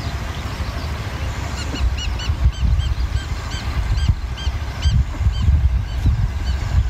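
A bird calling repeatedly: a string of short, high, arched notes, a few per second, starting a second and a half in and stopping about a second before the end, over a steady low rumble.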